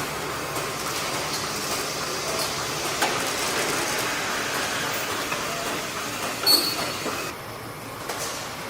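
Factory-floor machinery noise on a truck assembly line: a steady rumble and hiss with scattered clanks. A louder sharp clank with a brief high squeal comes about six and a half seconds in, and the hiss drops away soon after.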